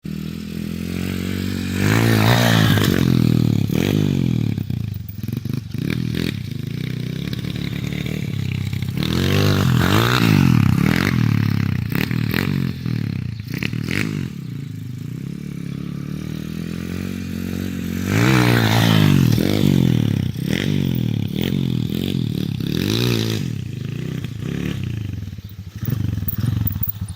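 Pit bike engine revving hard and easing off over and over, its pitch sweeping up and down with the throttle, with three big surges about two, nine and eighteen seconds in. Sharp knocks and clatter from the bike break in between, and the engine sound drops away right at the end.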